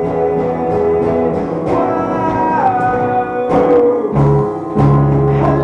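Live band music with strummed guitar, an instrumental passage of a worship song.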